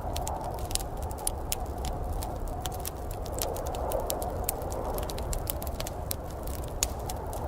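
Wood fire crackling in a fireplace: frequent, irregular sharp pops and snaps over a steady low rushing background.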